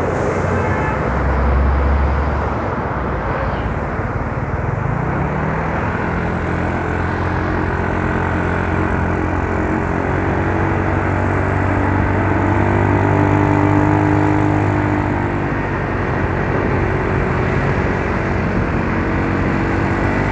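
Yamaha Mio Soul scooter's single-cylinder engine and CVT running while riding, its pitch climbing about a second in, holding fairly steady through the middle, then easing and shifting near the end, over road noise.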